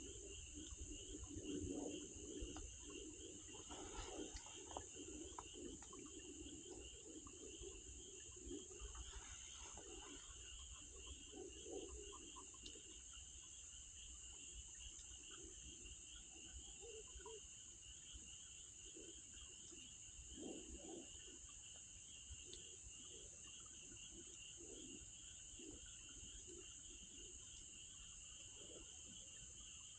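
Faint insects chirping steadily: a continuous high trill over a lower, rapidly pulsing chirp, with a few soft low rustles or crackles in the first dozen seconds.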